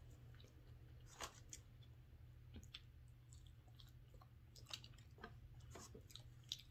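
Faint mouth sounds of someone eating fried chicken wings and fries: chewing with scattered small sharp crunches and clicks, about eight in all, over a steady low hum.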